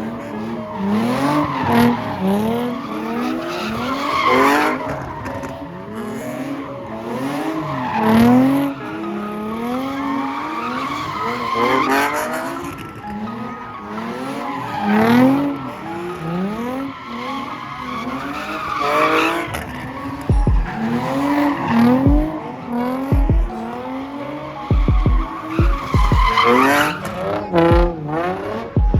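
A car engine revving up and down again and again, with tyre squeal, rising and falling every three to four seconds. Low thuds come in over the second half.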